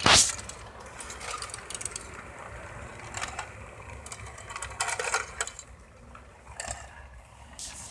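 Model train running on its track: a steady low rumble with bursts of small clicking and clattering from the wheels and cars, after a loud knock at the very start.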